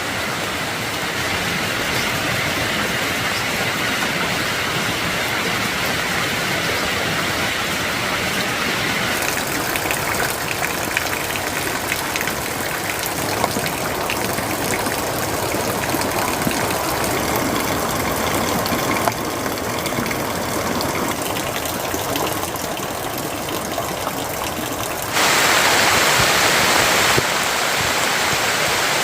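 Steady noise of running or falling water, with no speech. It changes character abruptly about a third of the way in and again near the end, where it gets louder.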